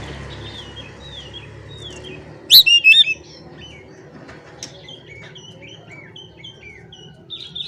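Oriental magpie-robin singing: a run of short, repeated downslurred whistles, broken about two and a half seconds in by a few loud, sharp notes.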